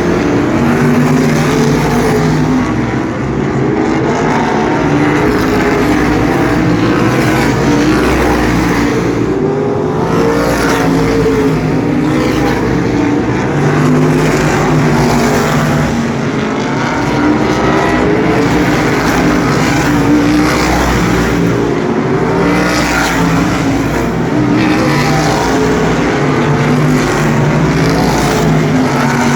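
A field of asphalt sprint cars running around the oval, several V8 engines heard at once. Their pitch swells and falls as the cars pass and go through the turns, in one continuous loud din.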